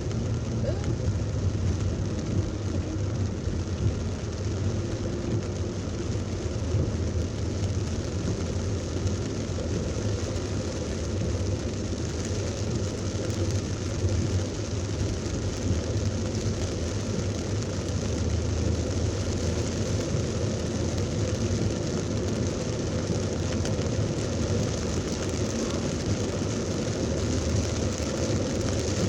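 Heavy rain falling on a car in traffic, with steady road and engine noise underneath.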